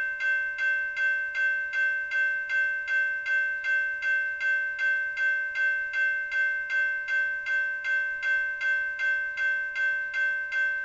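Railroad grade-crossing warning bell ringing in a steady, even rhythm of about two and a half strikes a second, each strike ringing on into the next.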